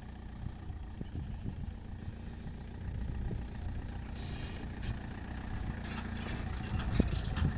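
A vehicle engine running with a continuous low rumble, with brief bursts of higher hiss over it in the second half.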